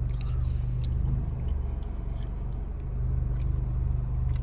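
Car engine idling with a steady low rumble, with faint clicks of someone chewing a bite of a pastry over it.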